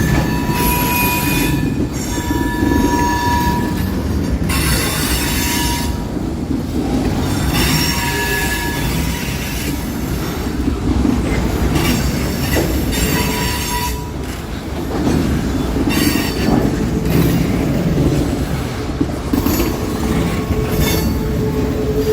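Slow freight train rolling past, steel wheels squealing on the rails in short high-pitched squeals that come and go over a steady rumble of the cars. Near the end a steadier, lower squeal sets in.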